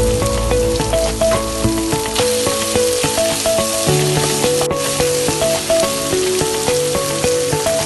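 Food sizzling in hot oil in a pan, a steady frying hiss, under background music with a simple melody.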